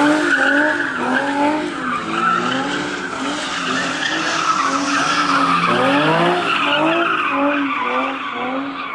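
Car engine revving hard over and over, its pitch climbing and dropping about twice a second, with a long climb about six seconds in, over a steady screech like tyres squealing.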